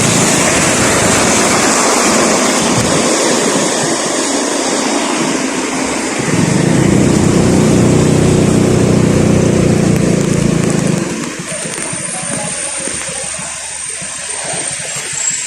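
Vehicle travelling on a wet road in the rain: a steady hiss of tyres and spray. Between about six and eleven seconds in, a louder low engine drone joins it. After that the noise drops.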